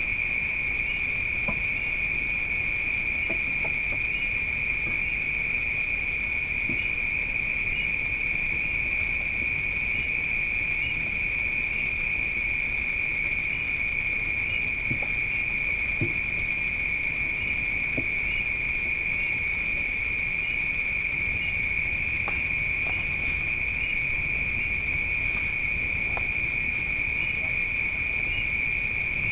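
Night insects, crickets, trilling in a steady chorus, with a continuous high shrill and a few faint scattered clicks.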